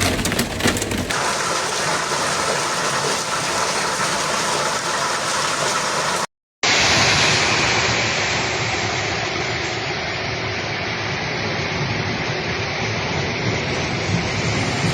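Heavy storm downpour of rain and hail: a steady rushing noise, with a rapid clatter of impacts in the first second. The sound cuts out for an instant about six seconds in and resumes.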